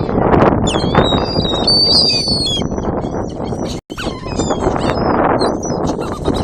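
A flock of gulls calling, many short high squealing calls overlapping, over a steady rushing background. The sound cuts out for an instant a little before four seconds in.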